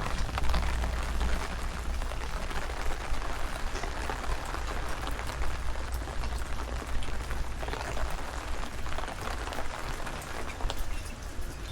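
Steady rain falling, with many small drops pattering and a low rumble of wind on the microphone underneath.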